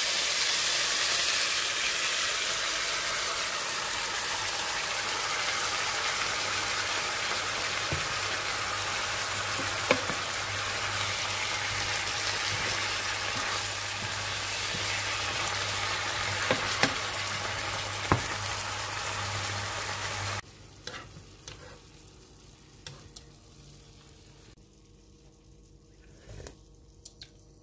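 Pork soft bones and sour bamboo shoots sizzling as they stir-fry in a hot pan, with now and then the knock of the spatula against the pan. About twenty seconds in the sizzling stops abruptly, leaving only a few faint clicks.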